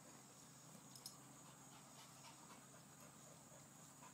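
Near silence: faint steady outdoor background with a few faint ticks about a second in.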